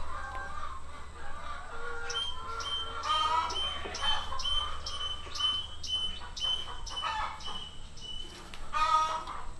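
Birds calling: short clucking calls, with a high thin note repeated about twice a second through the middle.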